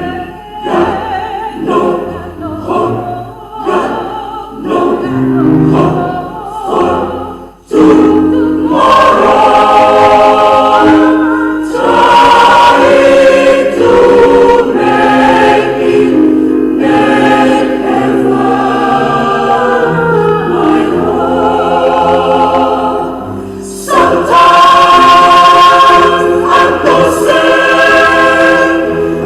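Small church choir singing in parts: short, separated notes for about the first eight seconds, then full, sustained chords, easing off briefly shortly before the end and coming back loud.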